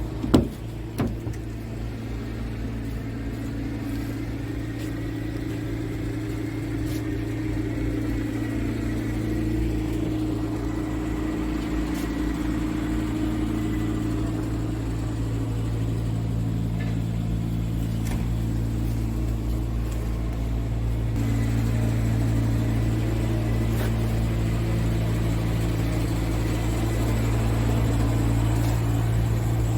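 Scania S truck's diesel engine running steadily, a low even rumble that grows slightly louder through the stretch and steps up about two-thirds of the way in. Two sharp clicks or knocks come in the first second.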